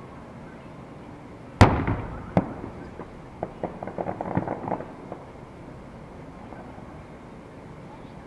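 Fireworks: a shell bursts with a loud bang about a second and a half in, a second sharp crack follows, then a run of quick crackling pops for about a second and a half.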